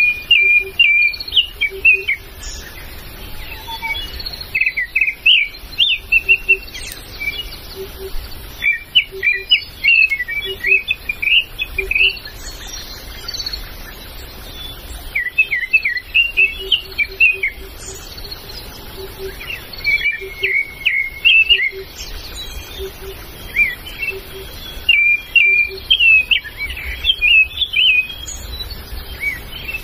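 Forest birds singing: bursts of rapid, high chirping phrases, each lasting a few seconds and recurring every few seconds. A faint low note repeats at even intervals underneath.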